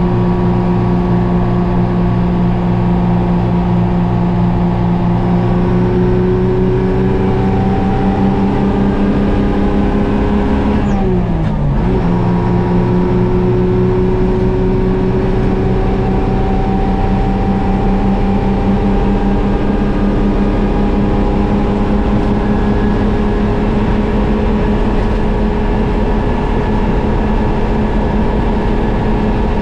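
GMC Crackerbox's Detroit Diesel two-stroke engine running steadily under load, its pitch climbing slowly. About eleven seconds in the revs drop sharply with a gear change, then climb again.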